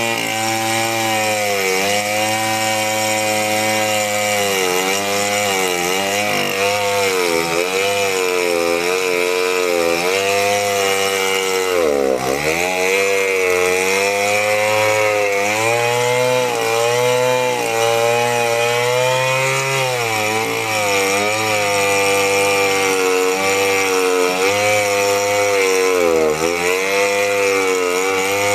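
Chainsaw running under load as it cuts into meranti batu hardwood, its engine pitch sagging and recovering again and again, with the deepest dip about twelve seconds in.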